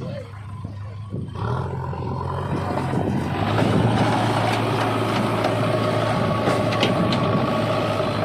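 Heavy diesel engine of earth-moving machinery running under load, getting louder and higher about one and a half to three and a half seconds in, then holding steady.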